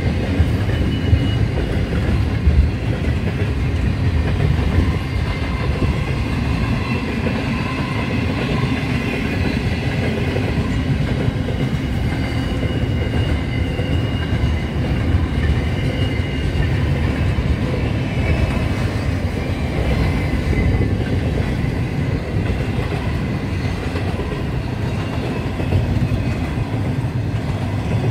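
Long freight train of intermodal container wagons rolling past: a steady rumble of wheels on rail, with a thin, wavering high wheel squeal over it.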